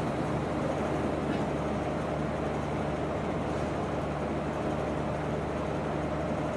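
Steady background hum and hiss with no voices, the room tone of a quiet hall picked up through a sound system.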